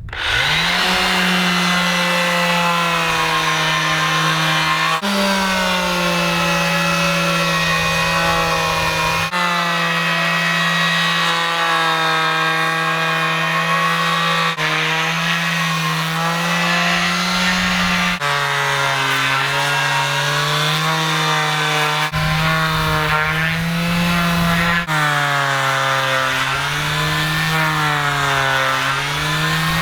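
Electric power sander running on a boat hull, a steady motor whine whose pitch dips and rises as it is pressed and moved, broken by abrupt changes every few seconds.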